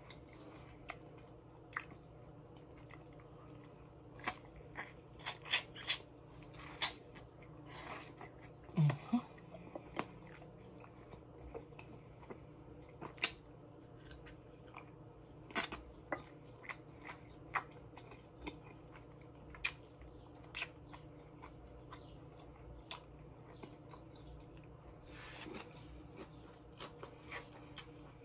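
Close-up eating sounds of a person chewing baby back ribs: irregular wet mouth clicks and lip smacks, with a short closed-mouth hum about nine seconds in.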